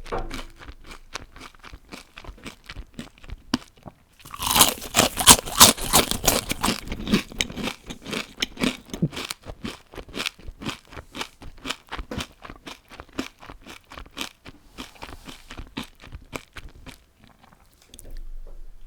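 Crunching bites and chewing of crispy deep-fried food. Softer crunches come first, then about four seconds in a loud, dense crunch of a fresh bite, followed by steady chewing crunches that fade near the end.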